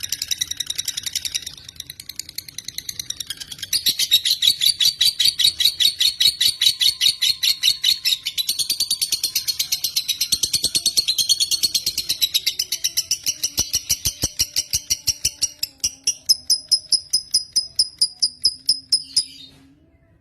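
Lovebird singing a long, rapid chattering trill of high chirps repeated several times a second. It falters briefly about two seconds in, then runs on unbroken until it stops abruptly near the end.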